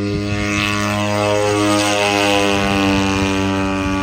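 Aircraft engine running at a steady pitch after spooling up, a loud even drone with a hiss over it.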